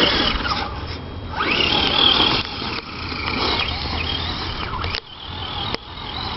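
Losi Desert Truck RC truck's Trinity 17-turn brushed electric motor whining, its pitch rising and falling as the throttle is worked, over tyre and dirt noise. One sharp click near the end.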